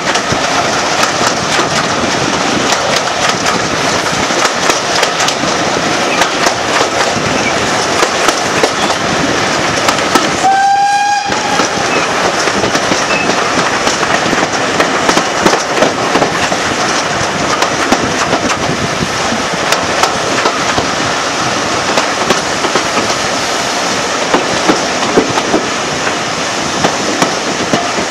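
Train running along the line, a steady rumble with the clickety-clack of wheels over rail joints. About ten seconds in it gives a short, high, slightly rising toot on its whistle or horn.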